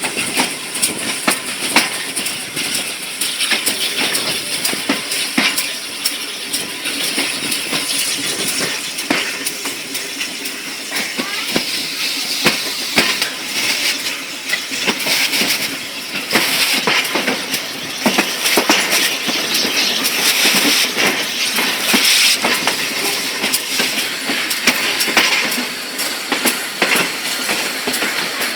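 Steam-hauled heritage train running along the line, the wheels and carriages giving out many irregular clicks, knocks and rattles over a steady rolling noise.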